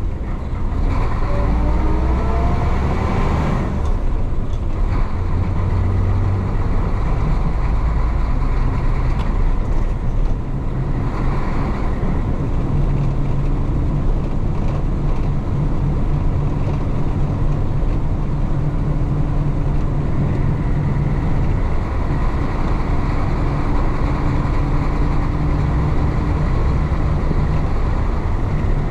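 The diesel engine of a 1966 Isuzu BXD30 bonnet bus, a DA640, pulling the bus along. In the first few seconds it revs up, then drops off at a gear change, and it runs on steadily after that.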